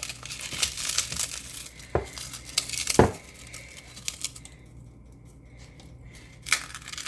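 Pork rinds being crushed in a container: crisp crackling and crunching, with two dull thumps about two and three seconds in, the second the loudest. It goes quieter for a couple of seconds, then the crunching starts again near the end.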